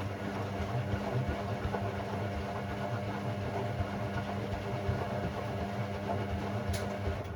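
Hoover Sportswear 1300 washing machine's motor running steadily with a low hum and churning for about seven seconds, then stopping near the end, part of the Delicate 15 programme's short gentle-action cycle.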